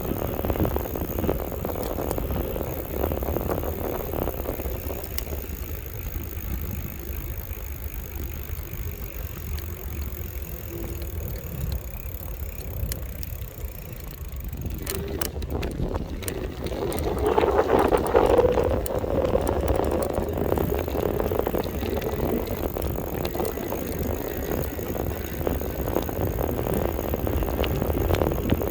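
Riding noise from an electric bike: a steady rumble of wind and tyres on the road. A few clicks come about fifteen seconds in, followed by a swell of louder noise for a few seconds.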